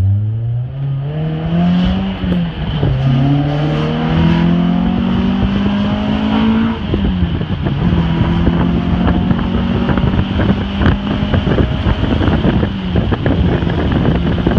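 2004 Toyota Celica's four-cylinder engine under hard acceleration in a manual gearbox, heard from inside the car: it revs up, drops in pitch at a gear change about 2 s in, revs up again, shifts again around 7 s, then holds a steady pitch. Wind buffets the microphone through the second half.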